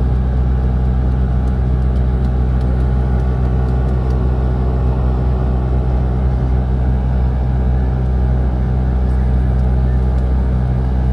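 Car interior noise while driving: a steady low engine and road drone that holds even throughout.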